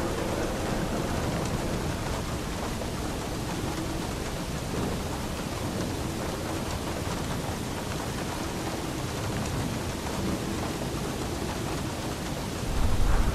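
Steady rain falling, with thunder; a deep rumble of thunder swells in near the end.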